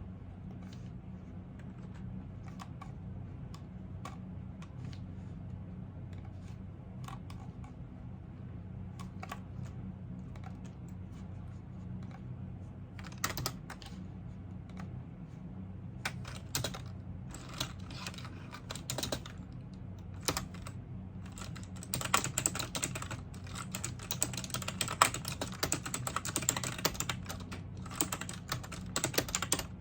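Typing on a computer keyboard: a few scattered, faint keystrokes at first, turning into louder clicking about halfway through and steady fast typing over the last third, over a steady low hum.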